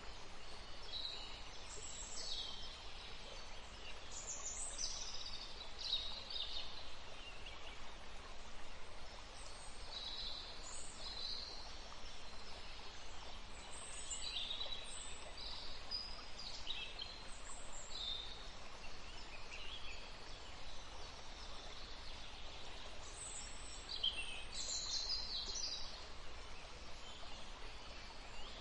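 Several small birds chirping and singing in a forest, with short high calls overlapping and coming every second or so, over a steady background hiss.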